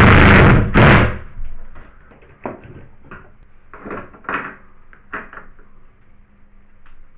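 Power drill with a drywall screw bit driving a screw in a few loud bursts over the first second or so, followed by light knocks and clatter.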